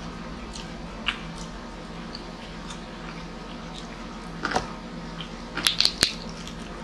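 Close-miked eating sounds: chewing and wet lip smacks as rice and grilled chicken are eaten by hand, with scattered clicks that bunch into a louder cluster of sharp smacks a little before the end, over a steady low hum.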